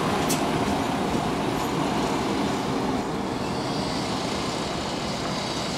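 London Midland Class 172 diesel multiple unit moving along the platform line, its diesel engine running and wheels running on the rails. There is a brief sharp click about a third of a second in, and the sound eases slightly about three seconds in.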